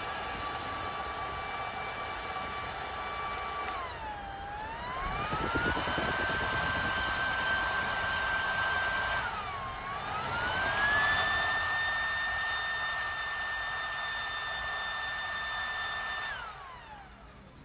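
Small high-speed cooling fan running with a high-pitched whine, stepped up through its speed settings. Twice the pitch briefly dips, then climbs to a higher steady whine. Near the end it is switched off and winds down.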